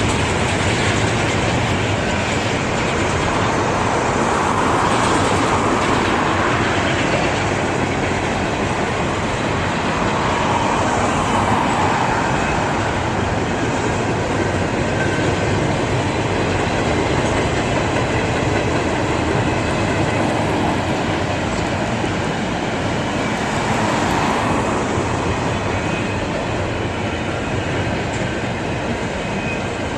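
Freight cars of a long double-stack container train rolling steadily past, with a continuous noise of wheels running on the rails that swells and eases a little.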